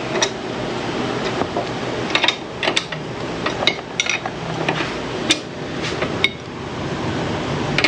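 Wrench work on a motorcycle's 22 mm rear axle nut as it is broken loose: a series of irregular metallic clinks and knocks over a steady hiss.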